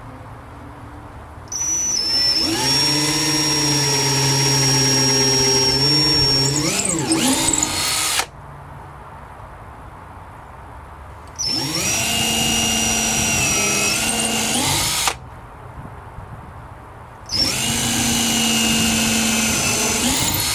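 Power drill running in three bursts of a few seconds each, working into a wooden gate while hasp latches are fitted. It makes a steady whine, and its pitch wavers near the end of the first and longest burst.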